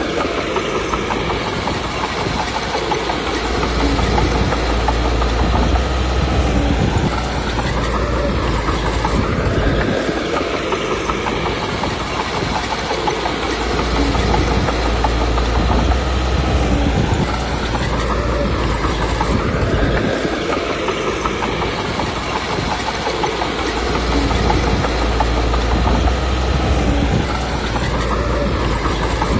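Komatsu D21P bulldozer's diesel engine running under load with its steel tracks clattering. The engine note and low rumble rise and fall again every five seconds or so as the machine works back and forth.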